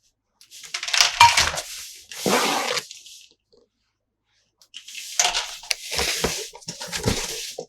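Rustling and clicking of toy packaging and plastic parts being handled, in two bursts of a few seconds each with a short quiet gap between.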